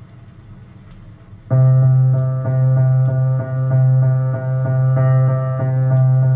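Faint surface noise of a vinyl record in the gap between tracks. About a second and a half in, an instrumental soundtrack track starts abruptly on piano or electric keyboard: a held low note under repeated higher notes, about three a second.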